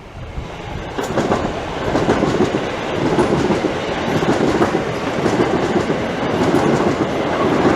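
Two coupled Class 357 Electrostar electric multiple units passing through the station without stopping, wheels running loudly on the rails. The noise swells sharply about a second in and stays loud.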